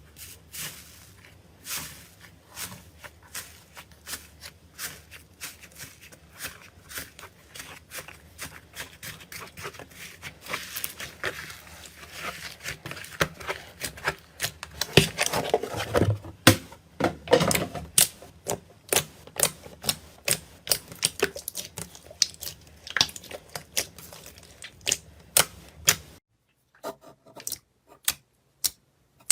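Slime being squeezed and poked, making many sharp, irregular clicking pops. About 26 seconds in the sound cuts to a quieter stretch with fewer clicks.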